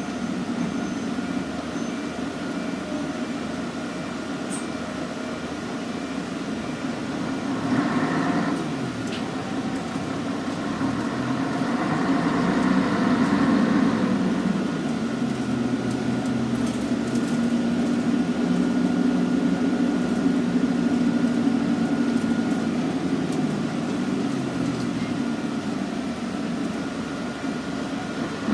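Scania N113CRB bus's six-cylinder diesel engine running while the bus is under way. Its pitch and loudness rise and fall as it accelerates and eases off, with a thin steady whine above the engine note.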